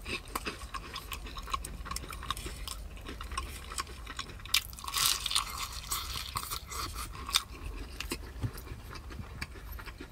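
Close-miked chewing and wet mouth sounds of a person eating: many small smacks and clicks, busiest about halfway through.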